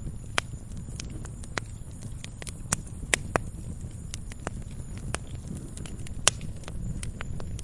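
Wood fire in a fireplace crackling: irregular sharp pops and snaps, a few louder than the rest, over a low steady rumble of the flames.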